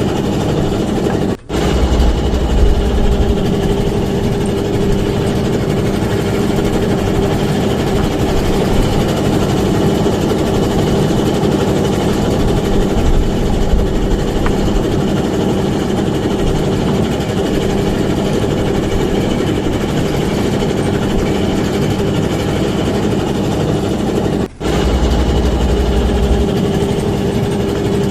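Small fishing boat's engine running steadily with a constant drone, broken by two brief gaps, about a second and a half in and near the end.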